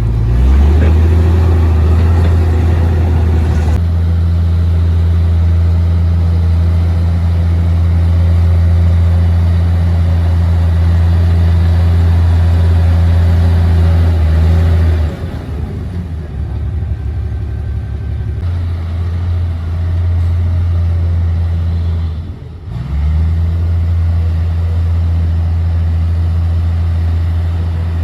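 Komatsu D58P bulldozer's diesel engine running with a steady low drone. About halfway through it eases off, then builds back up, with a brief dip shortly after before it settles again.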